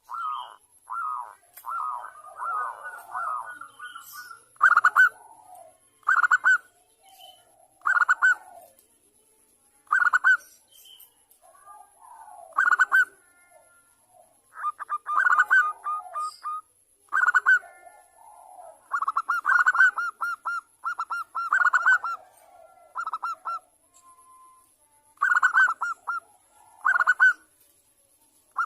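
Zebra dove (perkutut) cooing: short, fast-stuttering coos repeated every one to two seconds, sometimes run together in quick strings. It is the call of a female calling a male, used as a lure to set other doves singing.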